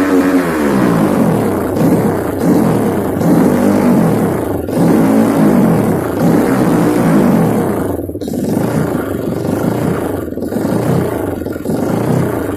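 Single-cylinder Kawasaki KLX 200cc trail-bike engine breathing through an Over Racing aftermarket exhaust, revved up and down over and over. The pitch rises and falls about once a second, with short drops in the exhaust note in the second half.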